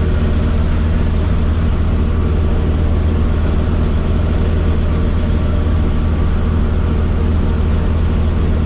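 Helicopter engine and rotor running steadily, heard from inside the cabin: an even, loud low drone with a stack of steady tones and no change in pitch.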